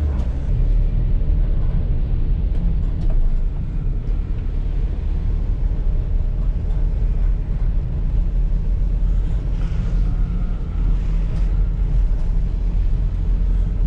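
Vehicle engine and road noise while driving: a steady low rumble.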